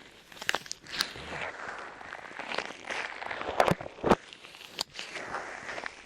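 Soft light clay pressed onto and pulled off a microphone's ears, giving sticky crackling with sharp pops and clicks scattered through it.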